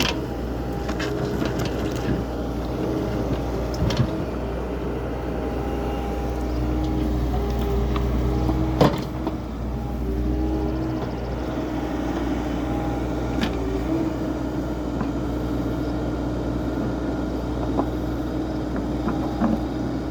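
An engine running steadily, with a few sharp knocks and clanks, one louder about nine seconds in.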